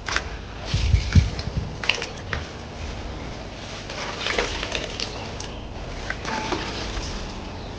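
Scattered clicks, knocks and rustles of objects being handled, with a few dull thumps about a second in.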